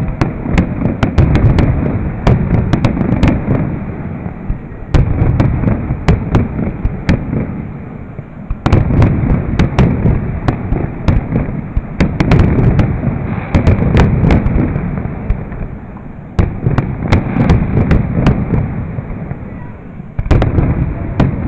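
Aerial fireworks display going off in a steady barrage. A new round of deep booms starts about every three to four seconds, each carrying on into a long crackle of many sharp pops.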